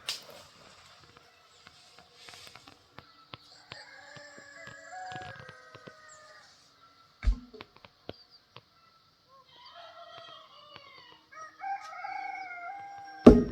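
Roosters crowing several times, each crow a long call lasting a second or two. A sharp thud comes about seven seconds in, and a louder one near the end.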